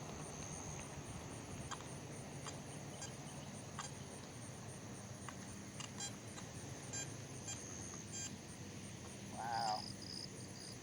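Insects chirring steadily at a high pitch, with scattered sharp ticks, and a short warbling tone about nine and a half seconds in.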